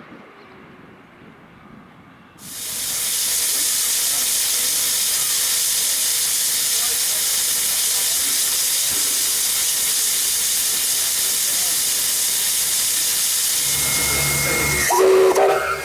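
Victorian Railways K class steam locomotive blowing off steam: a loud, steady hiss that starts abruptly about two and a half seconds in. Near the end a low hum joins it.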